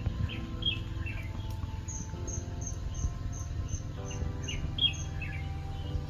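Wild birds chirping and calling, with a quick run of short, high, evenly spaced chirps, about three or four a second, in the middle. Soft background music with long held notes plays underneath.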